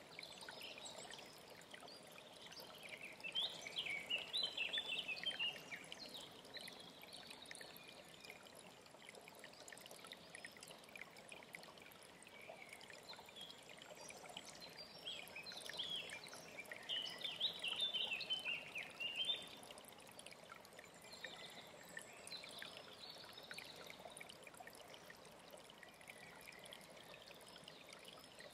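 Mountain stream running steadily, with a songbird singing two bursts of quick, high chirping notes, one about three seconds in and another from about fifteen to nineteen seconds in.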